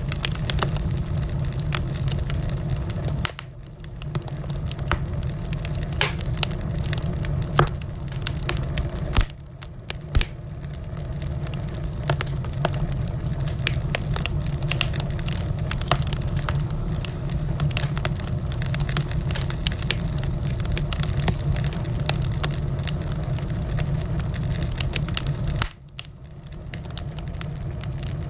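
Wood fire in a fireplace crackling steadily over a low rumble, with frequent sharp pops and snaps. The sound dips briefly three times before picking up again.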